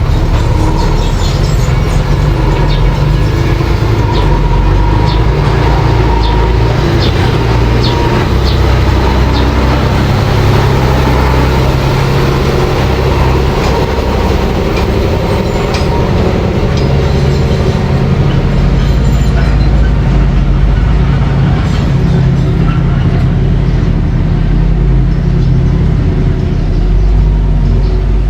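Mini bulldozer's engine running steadily, with a deep rumble and repeated short metallic clinks and clanks from the machine as it works.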